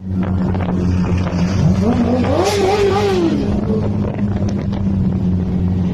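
Motorcycle engine running at a steady idle, revved once about two seconds in: the pitch rises, then falls back to idle.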